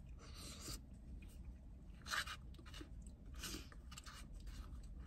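Close-miked chewing of a mouthful of chili, along with a plastic spoon scraping inside a foam cup. These come as three short scraping, rustling bursts and a few light clicks.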